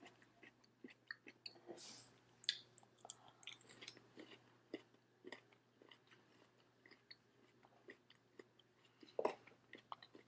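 Faint close-up chewing of juicy fresh fruit with chamoy and chili: soft wet smacks and mouth clicks scattered throughout, with a louder smack near the end.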